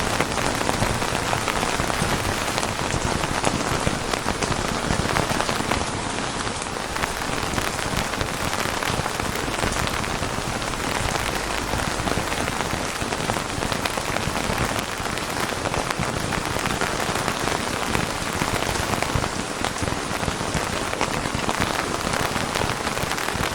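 Steady heavy rain falling on a surface: a dense, even hiss of many close drops.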